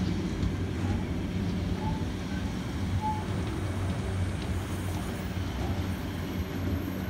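Freight wagons loaded with concrete railway sleepers rolling past at a steady speed: a continuous low rumble of steel wheels on the rails.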